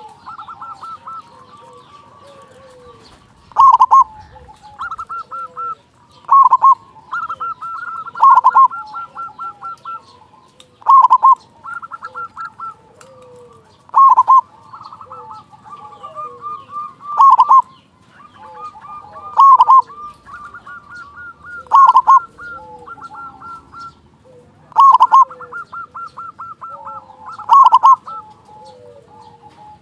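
Zebra dove (perkutut) cooing. A loud rolling coo comes about every two and a half to three seconds, with softer runs of quick staccato coo notes between them.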